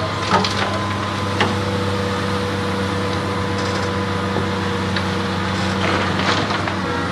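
Cat 330D excavator's diesel engine running steadily under work, with a few sharp clattering knocks early on and again around six seconds in.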